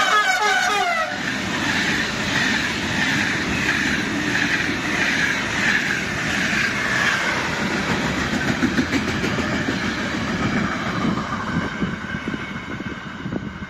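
An electric-hauled passenger train passes close by at speed. A horn call ends about a second in, and then the coaches rumble and clatter over the rail joints. A freight train passes on the adjacent track at the same time, and the noise eases a little near the end.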